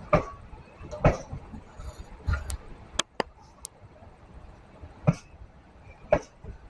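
Train wheels knocking over rail joints, with irregular knocks about a second apart over a low rumble, and a few brief high-pitched squeaks around the middle.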